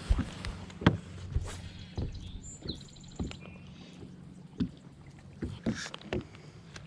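Scattered knocks and bumps on a small fishing boat, over a low steady hum, with a few faint high chirps about three seconds in.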